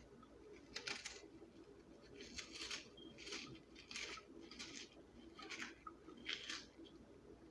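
A kitchen knife slicing through an onion on a cutting board: about seven short, crisp, faint cuts at an uneven pace of roughly one every 0.7 s.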